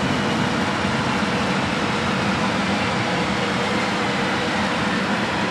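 Electric locomotive hauling a train of double-deck coaches slowly through a railway yard: a steady, even running noise without distinct wheel clicks.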